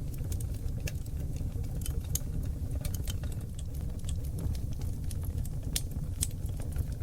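Wood fire burning on seasoned oak logs in a fireplace. A steady low rumble of flames runs under frequent irregular crackles and pops.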